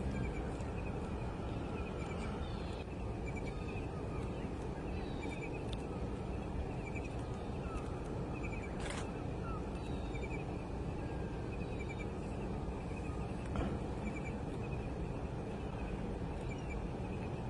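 Birds chirping faintly and repeatedly over a steady low background rumble, with a sharp click about nine seconds in and a softer one a few seconds later.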